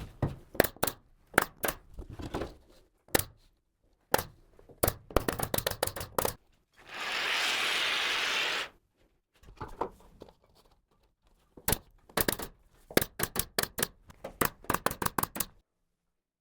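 Carpentry work on ceiling framing: a series of sharp knocks and clicks, some in quick runs, with about two seconds of steady hissing noise a little before the middle.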